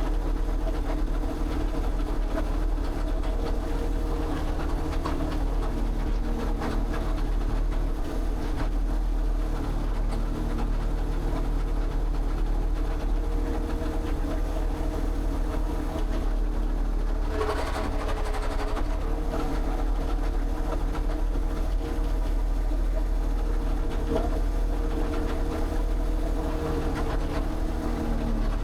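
A motor or engine running steadily with a constant hum, with a brief louder noise about two-thirds of the way in.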